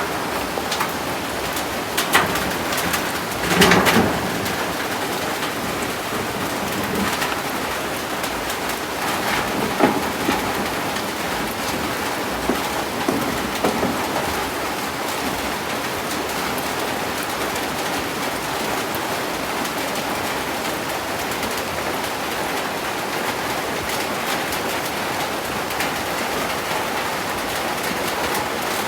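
Heavy rain falling steadily, a dense even hiss. A few brief louder knocks stand out, the strongest about four seconds in.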